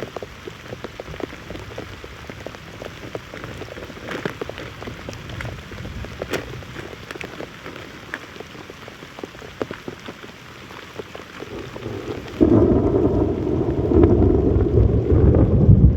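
Heavy rain falling, with many individual drops ticking on a surface. About twelve seconds in, a much louder low rumble suddenly takes over.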